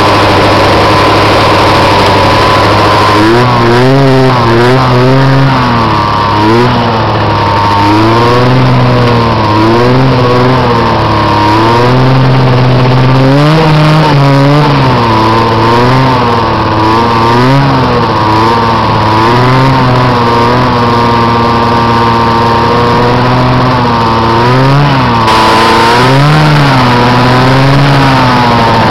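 Snowmobile engine running loud while ridden: steady for the first few seconds, then its pitch rises and falls over and over with the throttle.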